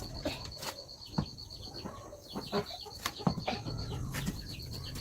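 Chickens clucking, among scattered short clicks and knocks, over a steady high pulsing tone.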